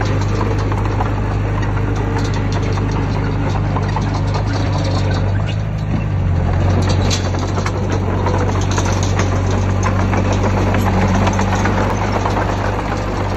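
Heavy diesel engine of earthmoving machinery running, a steady low drone with clanking and rattling throughout; the engine note shifts and grows a little louder about halfway through.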